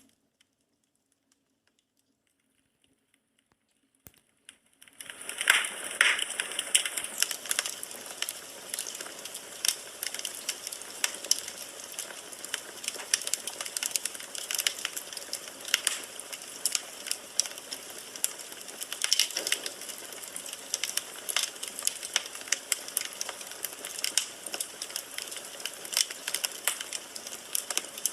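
Firewood burning in a fireplace, crackling with many sharp pops and snaps. The crackling starts suddenly about five seconds in, after near silence.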